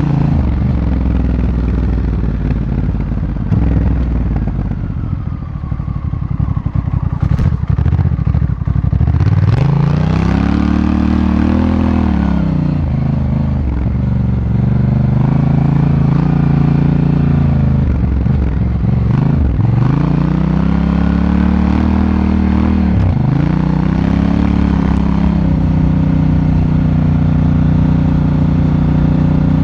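Honda Africa Twin motorcycle engine heard on board while riding, the revs rising and falling several times as the throttle is worked, then holding steady near the end. A few sharp clattering knocks come through between about seven and nine seconds in.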